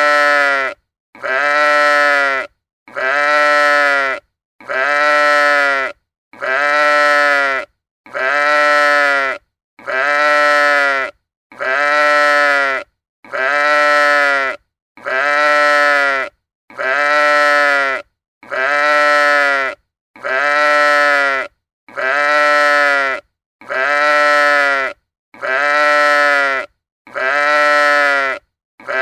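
Sheep bleating: the same call, about a second long, repeated over and over about every second and a half.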